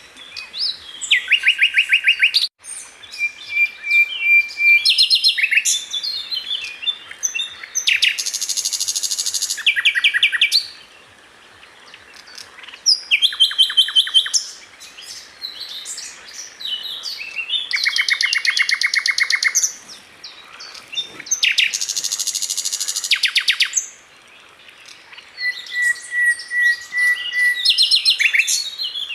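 Sikatan londo flycatcher singing: a varied song of fast rattling trills and sharp high notes in phrases a few seconds long, with short pauses between them and two held whistled notes among them.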